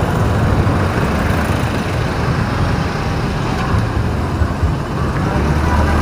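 Steady city road-traffic noise heard from a moving vehicle: a continuous low rumble of engines and tyres with no distinct single event.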